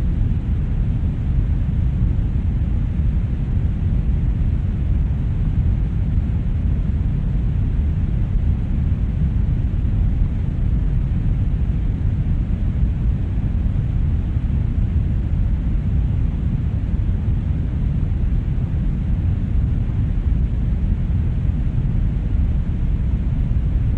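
Brown noise: a steady, deep rushing hiss, strongest in the bass and thinning out towards the treble, unchanging throughout.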